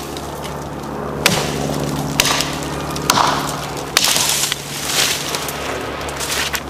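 Evansville forest axe chopping branches off a fallen tree: four sharp strikes about a second apart, some followed by a brief crackle of the brittle wood breaking.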